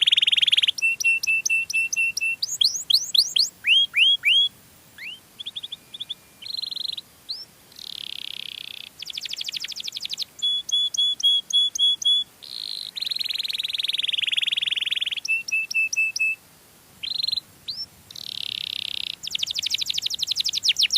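Domestic canary singing a long, varied song. It strings together rapid rolling trills, runs of repeated short whistled notes and rising slurred notes, with brief pauses between phrases.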